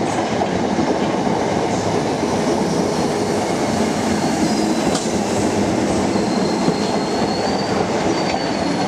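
Thameslink electric multiple unit running past the platform: a steady rumble of wheels on rail, with a faint high wheel squeal now and then in the second half.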